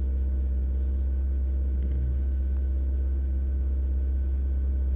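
Suzuki Swift's 1.5-litre four-cylinder engine running steadily, held at a raised speed of about 2000 rpm for a fuel-trim check on a suspected vacuum leak.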